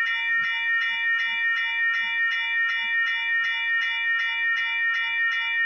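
Electronic railroad crossing bell ringing steadily at about two strokes a second, with faint low knocks from a passing freight train's wheels underneath.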